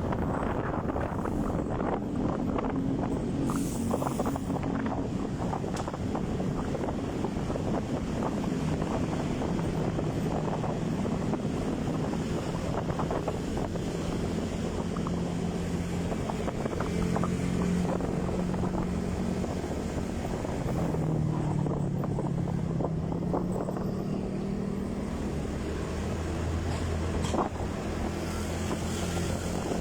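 Motorcycle engine running while riding, its pitch drifting up and down with speed, with wind buffeting the microphone.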